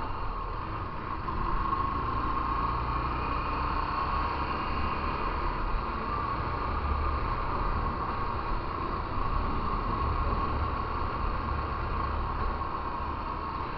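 Motorcycle riding at a steady pace: constant engine and road noise, with wind rumbling on the microphone.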